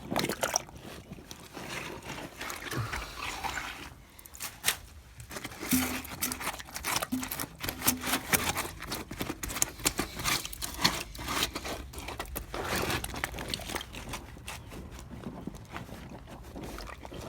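A hand digging clay-like silt, twigs and leaves out of the trap of a badly blocked drain gully, with irregular wet scraping and small knocks.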